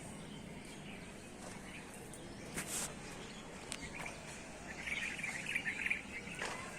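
A bird's rapid chattering call, lasting about a second and a half in the second half, over outdoor background with a few soft knocks earlier.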